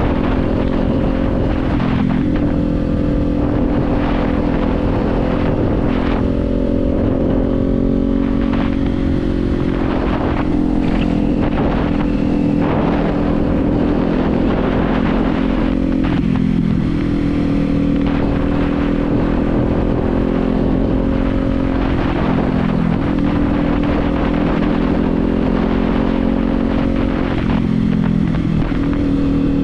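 Kawasaki Z400's parallel-twin engine running while riding, steady and loud, with the engine note stepping down and back up several times as the revs change.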